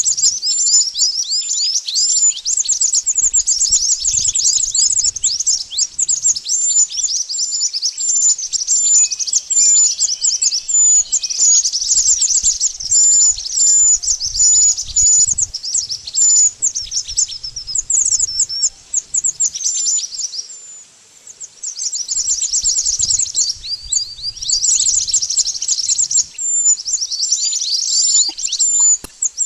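Song of the bird known in Indonesia as burung mantenan: a dense, continuous stream of rapid, high-pitched chirps, each a quick downward sweep, with a brief break about two-thirds of the way through.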